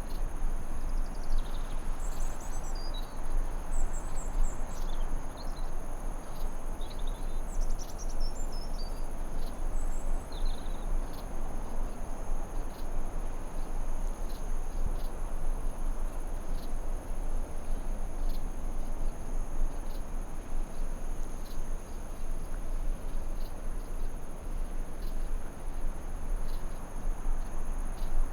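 Forest ambience: a steady rushing background with a constant high insect trill, and birds chirping in short calls during roughly the first ten seconds. Faint ticks sound about once a second.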